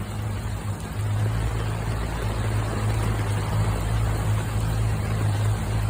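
Aluminum boat's motor running steadily under way, a constant low hum under a wash of wind and rain noise.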